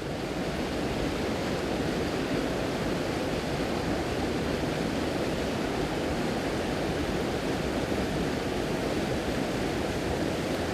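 Waterfall: a steady rush of water pouring over a rock ledge into a pool, growing a little louder about a second in.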